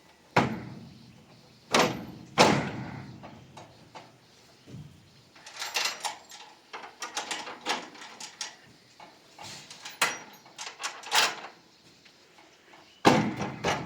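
A loud knock or thud followed by two more within about two seconds, then a run of lighter clicks and clattering, and another loud knock near the end.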